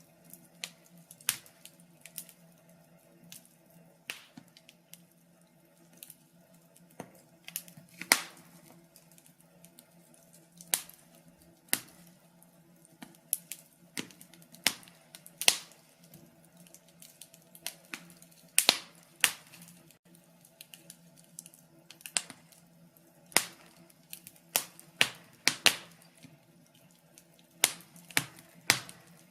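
Wood fire crackling: irregular sharp pops and snaps, a few a second, some much louder than the rest, over a faint steady low hum.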